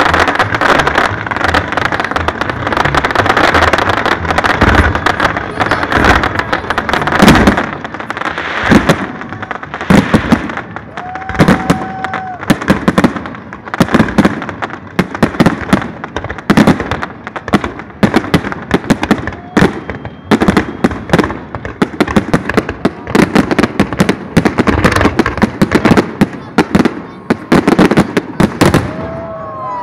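Fireworks display: aerial shells bursting in a rapid, continuous barrage, with dense crackling through the first several seconds. A brief steady whistle sounds about eleven seconds in.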